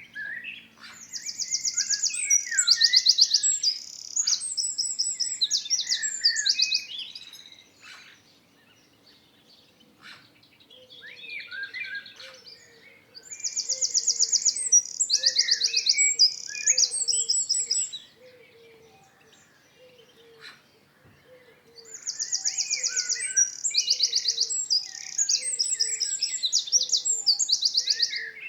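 A songbird singing three long, loud songs of fast trills and warbling phrases, each lasting about six seconds with short pauses between. A soft low note repeats steadily in the background from the middle on.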